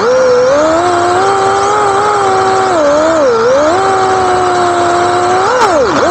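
Drift car engine held at high revs, the pitch wavering with the throttle, dipping about three seconds in and falling sharply near the end.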